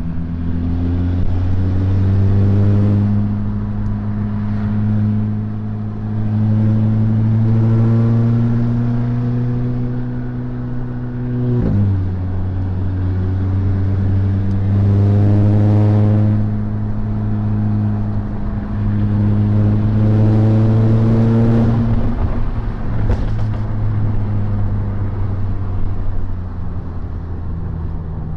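Volkswagen Mk6 GTI's engine under load while driving, its pitch slowly rising as it pulls through a gear. The pitch drops sharply at an upshift about twelve seconds in, climbs again, and then the engine eases off about twenty-two seconds in.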